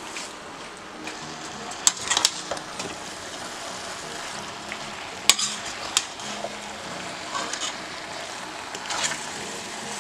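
Chicken and vegetables sizzling in a stainless steel pot, with a metal spoon stirring them and clinking sharply against the pot several times.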